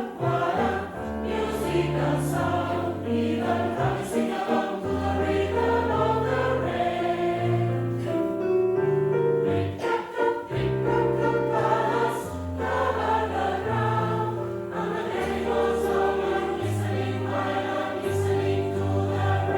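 A choir singing in several parts, holding chords that change every second or two.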